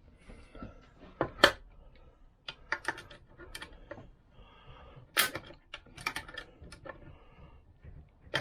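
Irregular sharp metallic clicks and clinks of pliers and the kickstart return spring against the Vespa PX engine casing as the spring is worked into place, the loudest knocks about one and a half and five seconds in.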